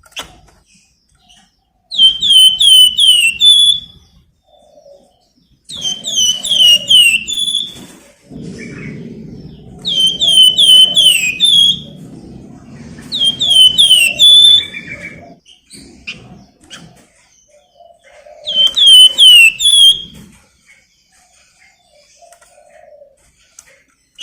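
A flamboyan songbird sings five loud phrases, each a fast run of down-slurred whistled notes ending in a short held note. A low background rumble runs under the middle phrases.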